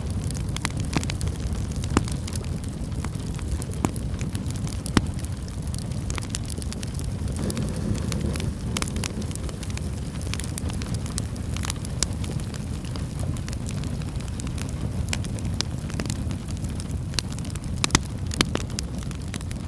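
Crackling wood fire: irregular sharp pops and snaps scattered over a steady low rushing background, with a few louder pops standing out.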